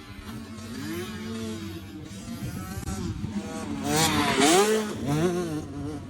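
Dirt bike engine revving, its pitch rising and falling several times, loudest about four seconds in.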